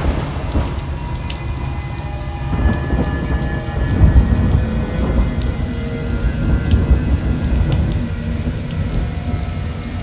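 Steady heavy rain with deep rolling thunder rumbling, swelling a few seconds in, from a spooky Halloween rain sound effect. Faint held tones run underneath.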